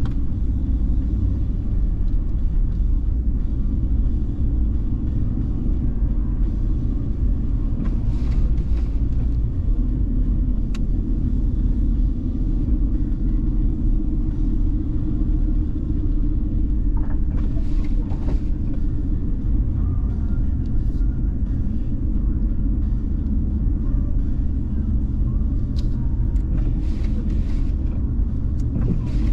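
Steady low rumble of a car driving along, engine and road noise, with a few brief sharper noises at intervals.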